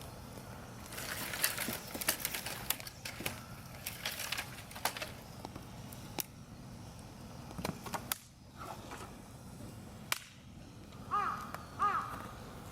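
Wood campfire crackling, with irregular sharp pops and snaps, thickest in the first few seconds and a few louder single pops later. Near the end come two short, high calls.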